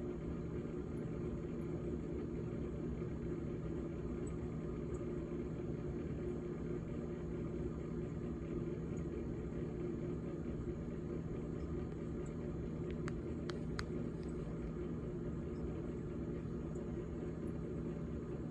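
GE GTH18XCTZRBB refrigerator running with a steady low hum, with a few faint ticks about two-thirds of the way through.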